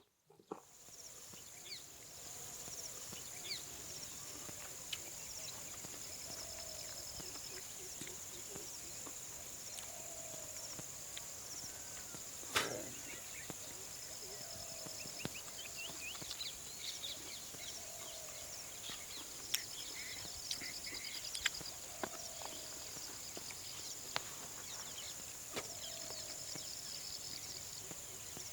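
Forest ambience: a steady high drone of insects with short repeated trills, scattered bird chirps, and a short low call that recurs every couple of seconds. A few sharp clicks sound now and then, the loudest about twelve seconds in.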